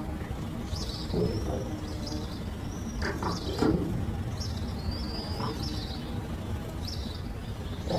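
Small birds chirping and whistling again and again over a steady low background rumble, with a few short lower sounds falling in pitch.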